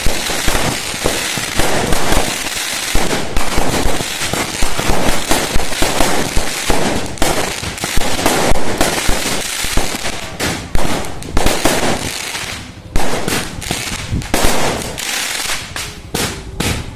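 Fireworks display: a dense, continuous barrage of crackling and banging bursts, thinning to separate loud cracks in the last few seconds.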